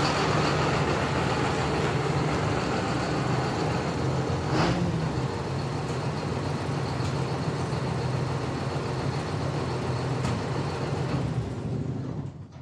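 A vehicle engine running steadily, then switched off suddenly near the end.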